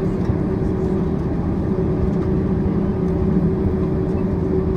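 Steady cabin noise of a Boeing 767-400ER taxiing to the gate after landing: engines at idle thrust under a constant low rumble, with a steady hum.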